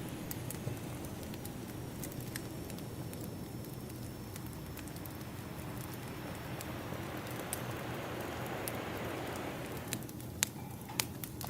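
Crackling wood fire over a steady wash of ocean waves: a continuous low rush, with scattered sharp crackles and two louder pops near the end.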